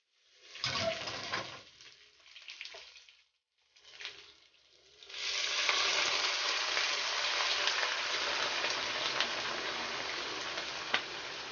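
Food frying in hot oil in a pan: the sizzle comes and goes at first, then about five seconds in a loud, steady sizzle starts and keeps on, with scattered crackles.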